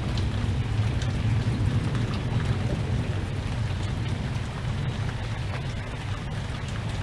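Steady rain with a low rumble of wind and scattered drops ticking close by, easing slightly in the second half.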